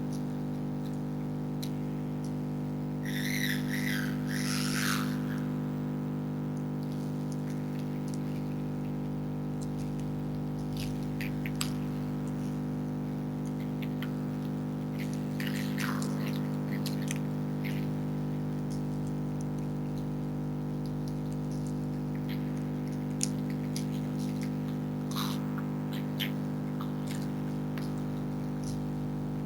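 A freezer running with a steady electrical hum made of several steady tones, the loudest sound throughout. Brief bird chirps come a few seconds in, about halfway and near the end, and there are faint crunching clicks of foxes chewing food.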